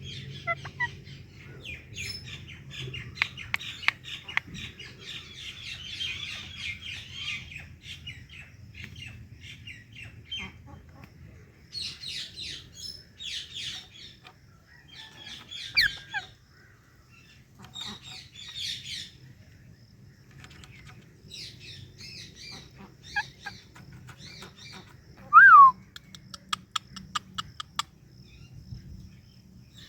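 Indian ringneck and Alexandrine parakeets chattering in quick high chirps, with pauses between bouts. About 25 seconds in there is one loud, short squawk falling in pitch, then a fast run of ticks.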